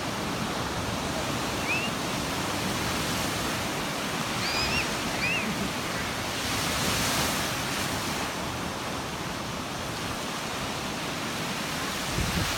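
A steady outdoor rushing noise, with a few short, high bird chirps about two seconds in and again around five seconds in.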